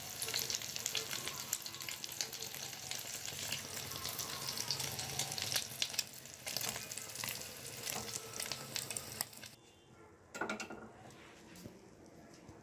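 An egg omelet frying in hot oil in a pan: a dense sizzle full of small crackling pops. The sizzle cuts off suddenly about three-quarters of the way through, followed by a single knock.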